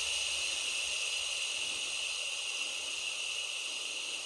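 Steady hiss of air being driven out through an open bleed cock of the TU6A diesel locomotive's cooling system, pushed ahead of the water being filled in; a thin high-pitched note runs through the hiss.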